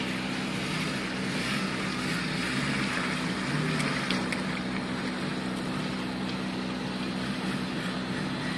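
Suzuki 4x4's engine running steadily as the vehicle drives slowly through mud and standing water.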